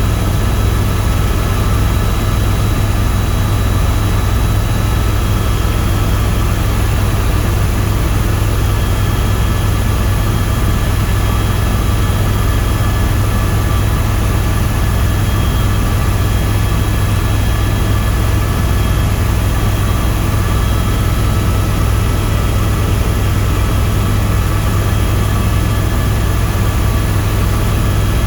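Helicopter noise in flight, heard from inside the cabin: a loud, steady low drone from the rotor and engine, with a few steady higher tones over it.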